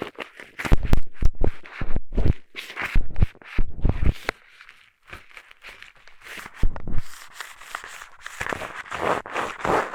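A pair of eyeglasses scratching and rubbing inside a binaural microphone's ear as an ASMR ear pick, in short irregular strokes with low thumps where it knocks the mic. There is a quieter pause in the middle, then dense, steady rubbing near the end.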